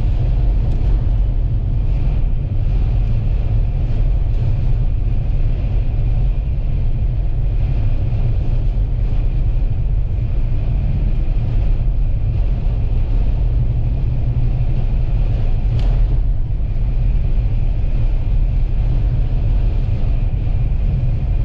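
Steady low rumble of a vehicle driving at highway speed: road and engine noise, even throughout.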